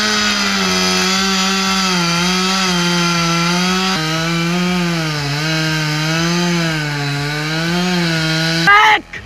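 Chainsaw running under load as it cuts into a tree trunk, its engine pitch wavering up and down as the bar bites. It gives a brief louder burst near the end, then cuts off suddenly.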